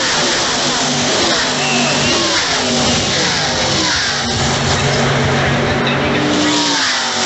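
NASCAR Camping World Truck Series race trucks going by at speed, several engines running at once, with their pitch falling as each passes.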